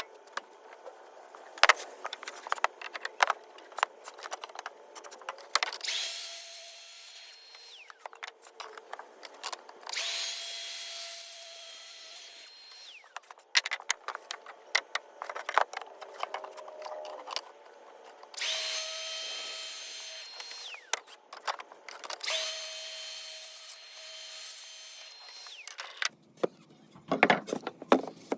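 Track saw spinning up and cutting through 2x6 lumber four times, each cut lasting a couple of seconds and ending with the motor winding down. Sharp knocks and clatter of boards being handled between the cuts.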